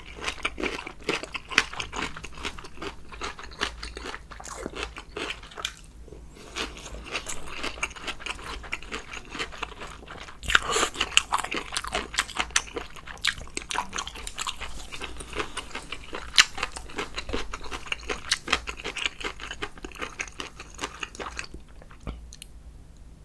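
A person chewing and biting food close to the microphone, a dense run of crunchy, wet mouth clicks with brief pauses, dying away near the end.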